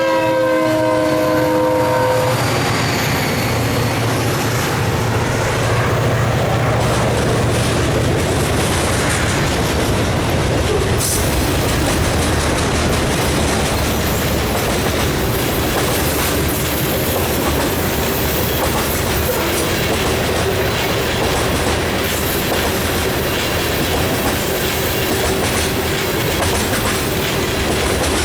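A locomotive's multi-note horn chord ends about two seconds in. Then a freight train rolls past: a steady rumble of wheels on rail with the clickety-clack of cars crossing rail joints.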